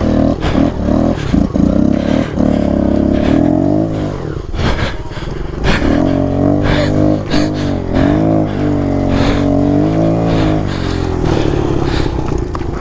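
Kawasaki KLX 110 pit bike's small single-cylinder four-stroke engine revving hard under throttle through snow, its pitch rising and falling again and again. The revs drop briefly about four seconds in, then climb again.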